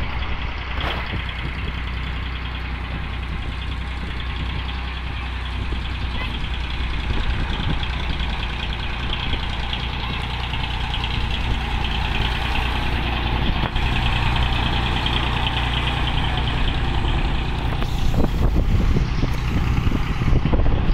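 15-inch-gauge miniature railway train approaching and crossing a level crossing: a steady engine drone that slowly grows louder, then a rapid clatter of wheels over the rails as the carriages reach the crossing near the end.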